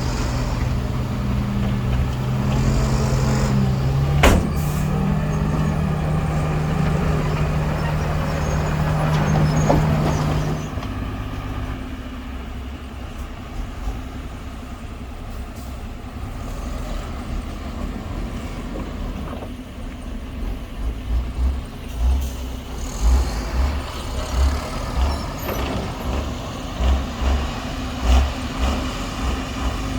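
Heavy diesel earthmoving machinery running: a steady engine drone with one sharp clack about four seconds in. About ten seconds in the engine drops to quieter running, and irregular low thuds come through near the end.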